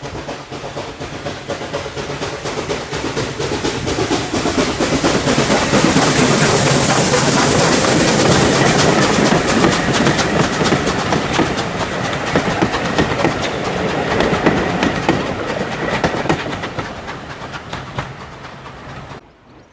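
Steam train hauled by a USA S160 class 2-8-0 locomotive passing by, with wheels clicking over the rail joints. It grows louder to a peak about a third of the way in, then fades away, and the sound cuts off suddenly near the end.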